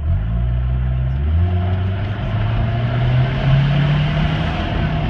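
Toyota 22R-TE turbocharged four-cylinder engine pulling under load: its note steps up at the start, climbs steadily in pitch over a few seconds, then drops sharply near the end as the revs fall.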